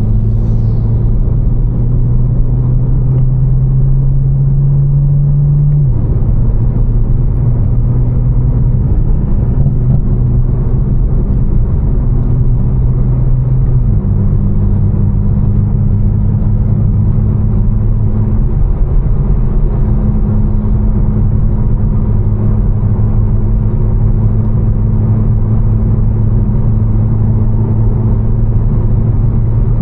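Tuned BMW M4's twin-turbo straight-six, fitted with catless downpipes and a Fi exhaust, droning steadily at cruise over a steady hiss of road noise. Its pitch steps down about six seconds in and again about fourteen seconds in.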